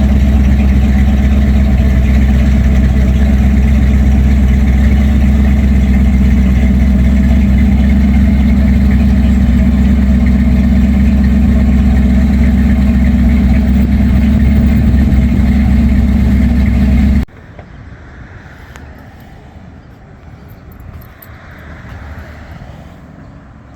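Car engine and exhaust droning steadily at an even speed, loud and unchanging, cutting off abruptly about 17 seconds in; after that only a much quieter outdoor background remains.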